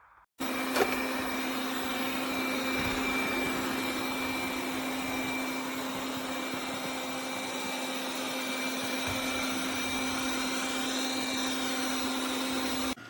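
Tikom L8000 Pro robot vacuum running: a steady whir of its suction fan with a constant hum, cutting in suddenly with a click and stopping abruptly near the end.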